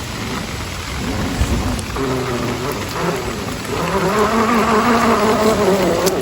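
RC off-road truck's electric motor buzzing under load, its pitch wavering as it strains, over the steady hiss of heavy rain.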